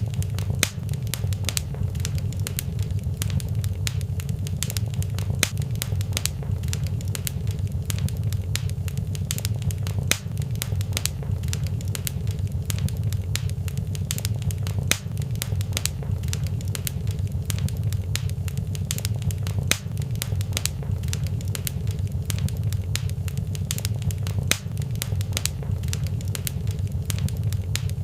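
Fireplace fire crackling: frequent small, irregular pops and snaps over a steady low rumble of flames.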